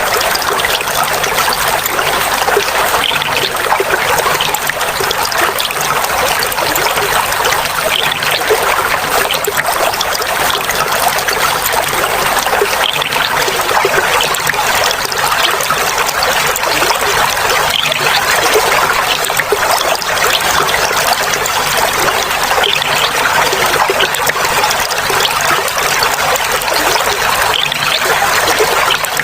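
Clear water trickling and gurgling steadily.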